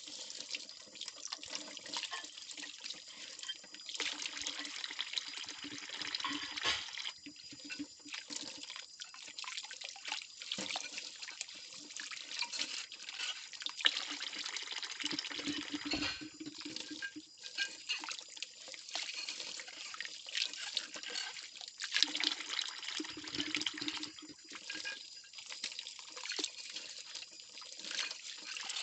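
Tap water running and splashing into a kitchen sink while ceramic plates are washed by hand, with scattered clinks and knocks of the dishes, the sharpest about halfway through and again later on.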